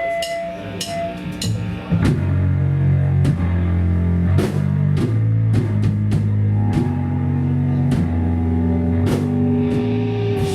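Hardcore band playing live: a few scattered drum and cymbal hits, then about two seconds in the full band comes in loud with guitar, bass and drums.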